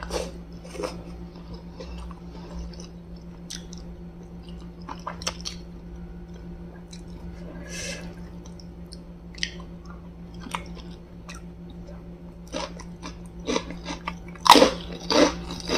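Close-miked chewing and biting on sauced fried chicken wontons, with scattered small mouth clicks. About a second and a half before the end come several loud crisp crunches as a krupuk cracker is bitten. A steady low hum runs underneath.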